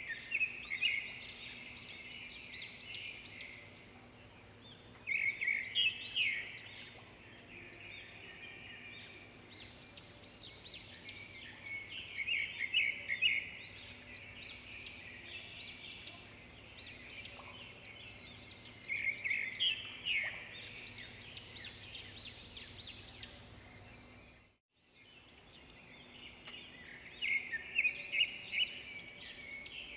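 Songbirds singing: bursts of quick, high chirps and trills every few seconds over a faint steady background. The sound cuts out completely for a moment about four-fifths of the way through.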